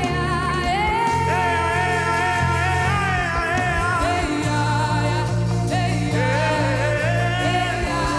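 Live gospel worship music: a voice singing long, wavering held notes over keyboard and a steady bass line.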